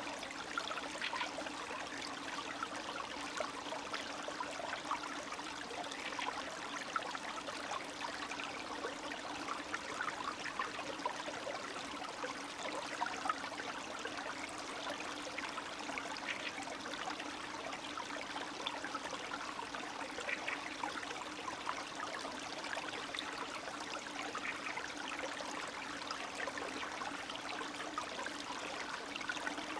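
Small spring stream running and trickling steadily, with constant little splashes and gurgles of water over stones.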